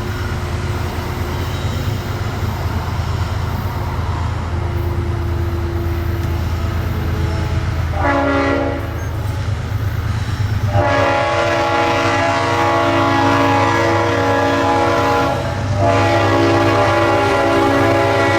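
Freight train's diesel locomotive rumbling as it approaches. Its horn then sounds a chord of several tones: one short blast about eight seconds in, then a long blast from about eleven seconds that breaks briefly and starts again.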